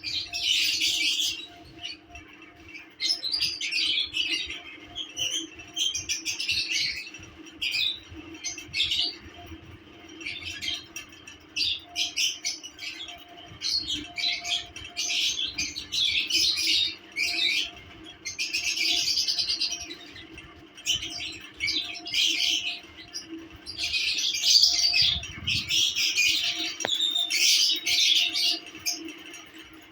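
Pet lovebirds chattering: quick runs of short, high chirps and squawks in bursts of a second or two, over a faint steady hum.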